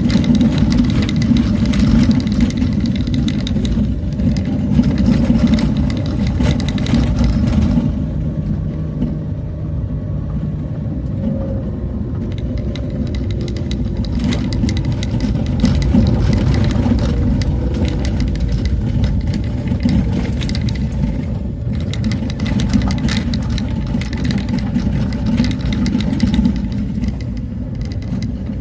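A vehicle driving along a road: a steady low engine and road hum with a dense crackle of small knocks and rattles, which thins out for a few seconds about eight seconds in.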